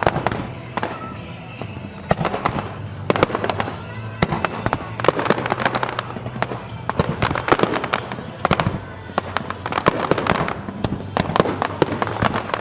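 Aerial fireworks going off in rapid succession, sharp bangs mixed with crackling bursts, over background music.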